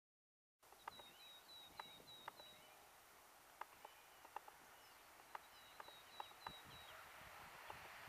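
Quiet countryside ambience: a small bird sings runs of short high chirps among scattered sharp ticks. Toward the end a hiss slowly swells as a distant electric-hauled passenger train draws nearer.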